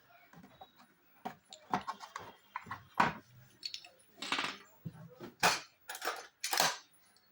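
Irregular clicks, clinks and short scraping rasps of hand tools and small metal parts being worked on a home theatre amplifier unit, sparse at first and louder and more frequent in the second half.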